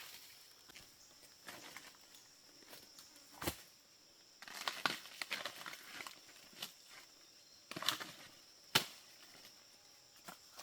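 Scattered sharp knocks and crackles of hands and feet working in forest undergrowth, in small clusters with the sharpest knock near the end, over a steady high drone.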